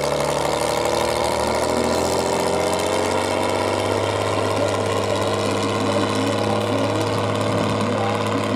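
Tatra 813 truck's diesel engine running steadily under load, its pitch rising slowly over the first few seconds and then holding.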